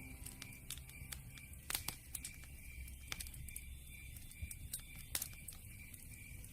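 Campfire crackling: irregular sharp pops and snaps, a few louder ones in the middle, over a low steady rumble. A faint, regular high chirping repeats in the background.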